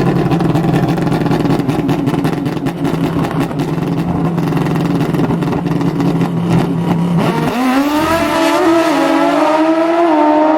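Drag racing engines running: a steady, crackly engine note holds for about seven seconds, then a higher engine note takes over and slowly climbs in pitch.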